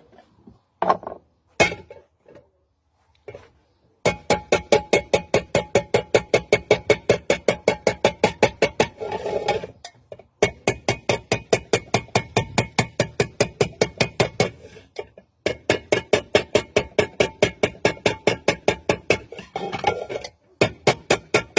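A few metal clinks, then fast, even hammer blows on metal, about five a second, each with the same ringing note. They come in runs broken by short pauses.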